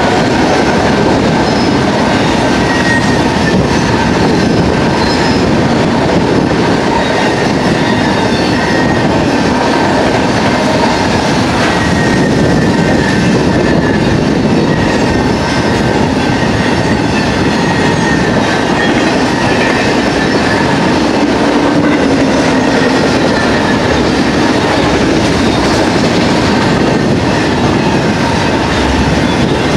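Freight train of autorack cars rolling past close by: a steady rumble with the clatter of steel wheels over the rail joints.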